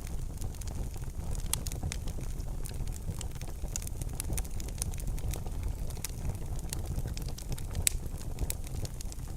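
Fire in a fireplace crackling: frequent sharp pops over a low steady rumble, with one louder pop near the end.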